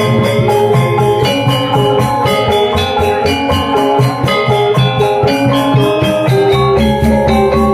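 Balinese gong gamelan ensemble playing a tabuh: bronze metallophones struck in dense, rapid note patterns over ringing low tones, with a steady run of high metallic clashes several times a second.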